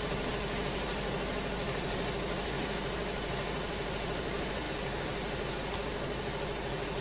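Wood-Mizer LT70 band sawmill running steadily, its engine holding an even drone with no change in pitch.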